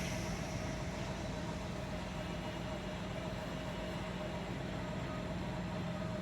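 Diesel engine of a Waggon und Maschinenbau railbus running steadily, a low rumble with a constant mid-pitched hum over it.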